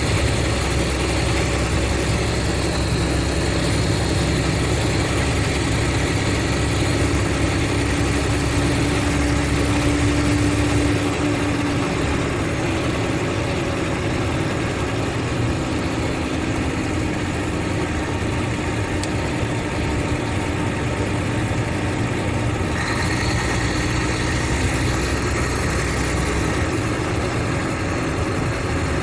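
Mercedes-Benz O500RSD coach's diesel engine running with a steady drone, its tone shifting about a third of the way through and again near the end.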